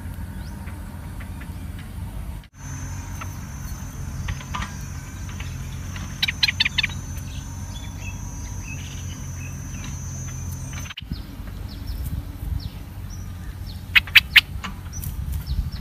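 Short, sharp bird chirps around a bulbul's nest: a quick cluster of about five some six seconds in, and three louder ones near the end. A steady low rumble runs underneath, and the sound drops out for an instant twice.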